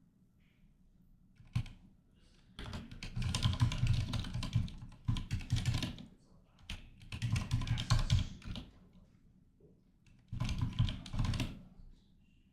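Computer keyboard being typed on in four quick bursts of rapid key clicks, each lasting one to two seconds, with a single click just before the first.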